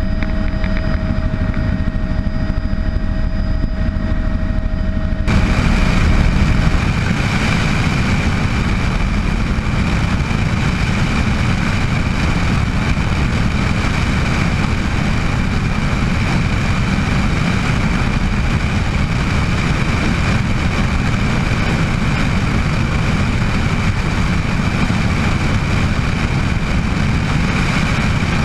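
Bell 206 JetRanger helicopter running, a steady low drone of rotor and engine. About five seconds in the sound changes abruptly to a fuller, hissier noise with a steady high whine on top.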